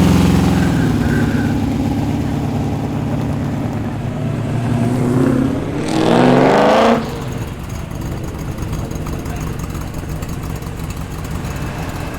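Holden Torana's engine pulling away with a deep, loud note that eases off over the first second or two. About five seconds in, a car engine revs up with rising pitch, is loudest for about a second, then cuts off abruptly, leaving a quieter steady engine running.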